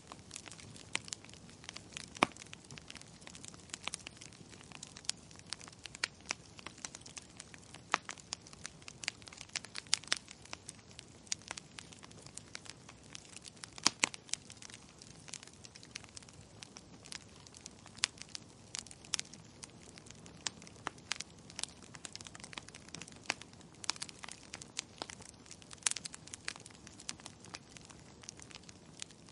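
Burning firewood crackling: irregular sharp pops and snaps over a soft steady hiss, a few louder snaps standing out, about two seconds in and again around fourteen seconds.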